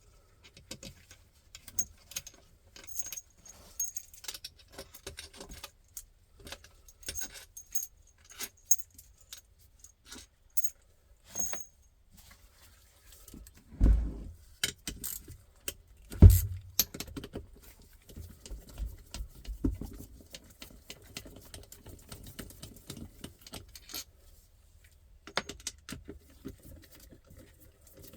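Metal tools and small engine parts clinking and rattling in a series of short, irregular clicks while a 125 cc motorcycle engine is being taken apart. There are two heavy knocks about halfway through, the second the loudest.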